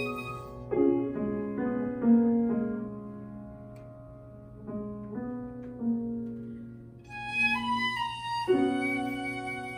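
Flute and piano playing a classical piece. The flute drops out about half a second in, leaving the piano alone, and comes back with a high melodic line at about seven seconds.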